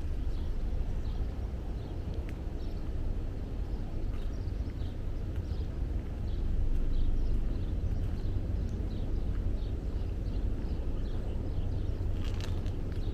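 Woodland ambience: a steady low rumble, with a small bird giving short, faint high chirps over and over through most of it, and a few sharp clicks.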